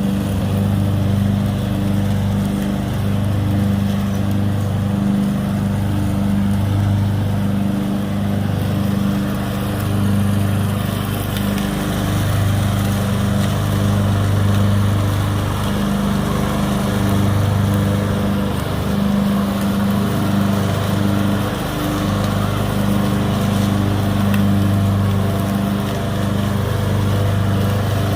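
Small engine of a riding lawn mower running steadily at a constant drone, its low hum swelling and fading every second or two.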